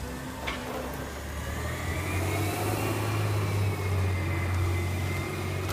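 Recycling garbage truck's engine pulling away and accelerating, its low hum growing louder after a second or so with a whine that rises and then falls.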